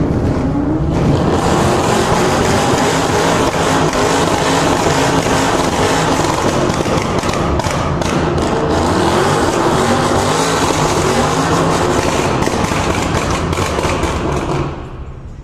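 Car engine revved hard, pitch rising right at the start, then held loud at high revs before it drops away near the end.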